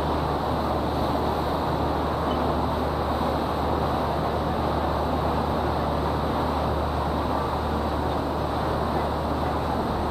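Steady low rumble and rushing noise of a river tour boat under way, unchanging throughout.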